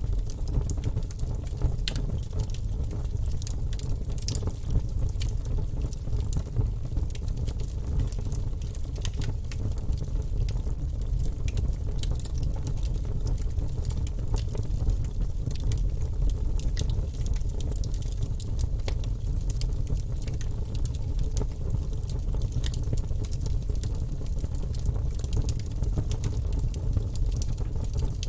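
Fire burning in a fireplace: a steady low rumble with frequent small, sharp crackles and pops.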